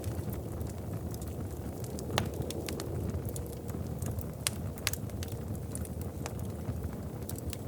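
Wood fire in a fireplace crackling, with irregular sharp pops over a low steady rumble. The loudest pops come about two seconds in and twice more around the middle.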